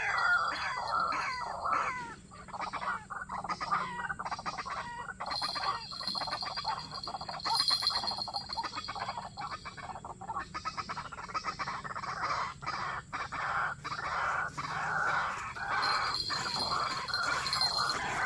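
White-breasted waterhen (ruak-ruak) calling: a rapid, continuous string of short, harsh, repeated notes. A steady high buzz comes in about five seconds in and again near the end.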